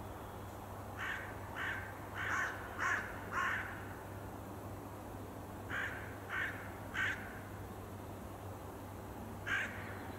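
A bird calling in short, separate calls: a run of five, a pause, three more, then a single call near the end.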